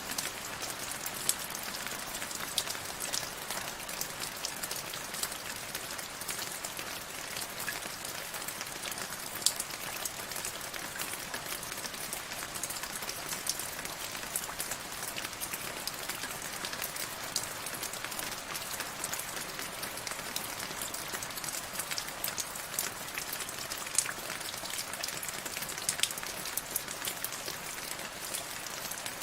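Steady rain falling on a surface, with many distinct drop ticks over a constant hiss and now and then a louder single drop.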